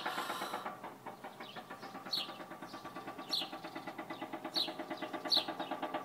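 Construction drilling from a nearby house, a constant fast rattling pulse of about eight beats a second. Short falling bird chirps repeat about once a second over it from about two seconds in.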